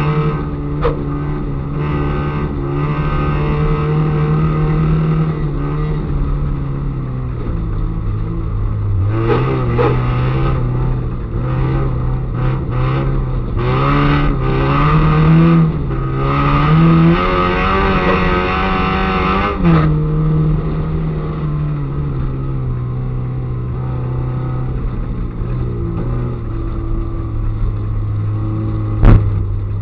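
Peugeot 205 Mi16 rally car's engine heard from inside the cabin, revving up and down through the gears, climbing to its highest revs about halfway through and then dropping back to lower, steadier revs. A single sharp knock near the end.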